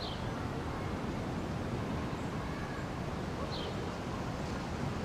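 Steady outdoor background hum, like distant traffic, with two short high bird chirps: one at the start and one about three and a half seconds in.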